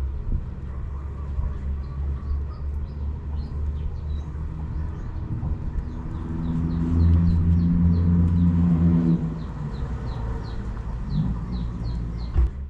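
Small birds chirping repeatedly over a low rumble, which swells into a louder steady hum for a few seconds in the middle.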